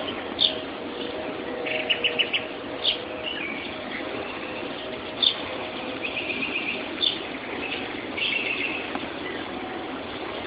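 Morning chorus of several songbirds: loud, sharp call notes about every two seconds and quick trills, over a steady background noise. Recorded on a mobile phone, so the highest tones are cut off.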